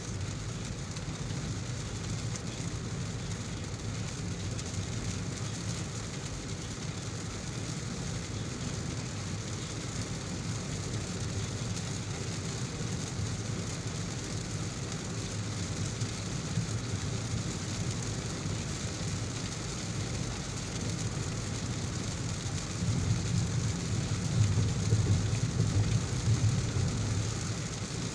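Heavy rain with a steady low rumble underneath. The rumble grows louder for a few seconds near the end.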